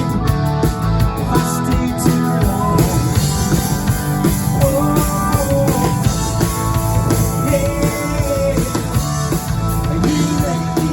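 Rock band playing, with the drum kit prominent and guitars underneath.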